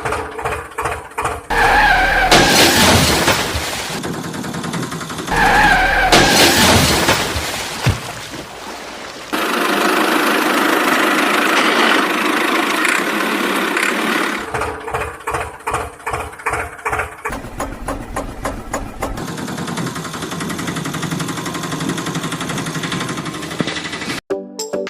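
Vehicle engine sounds: the same loud burst twice in the first eight seconds, then steady running with stretches of rapid ticking.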